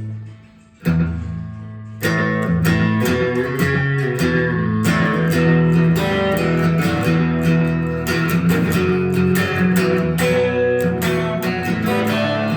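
Instrumental guitar introduction to a song: a single chord about a second in, then steady rhythmic strummed guitar from about two seconds on.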